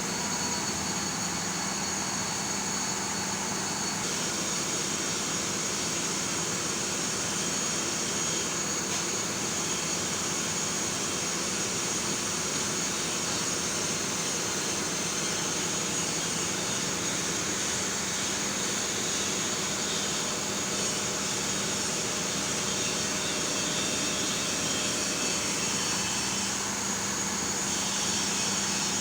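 Heavy vehicle on the move, a steady mix of engine and road noise with a constant high whine, typical of a Liebherr mobile crane travelling by road.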